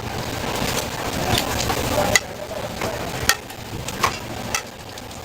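Food frying with a steady sizzle, with a few sharp clicks scattered through it; the sizzle drops a little in level just after two seconds in.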